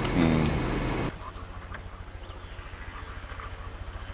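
A voice for about a second, then an abrupt cut to a steady low engine hum with a fast, even pulse.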